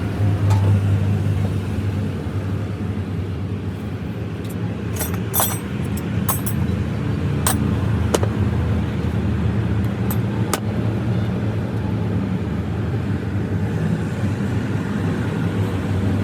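A vehicle engine running steadily at idle, with a few sharp metallic clinks, most of them clustered in the middle.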